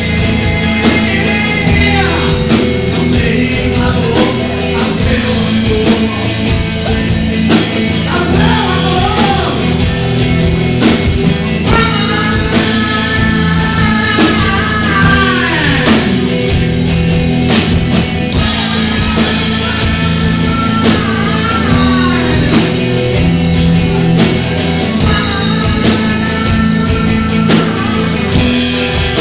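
Rock band playing live: drum kit, bass and electric guitar, with a lead melody of long held notes that slide down in pitch about halfway through.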